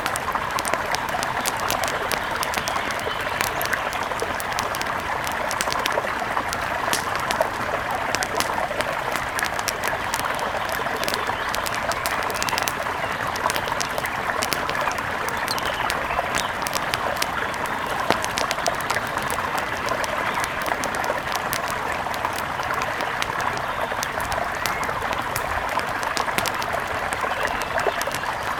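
Steady rush of a flowing mountain river, with many small sharp ticks and pops scattered over it.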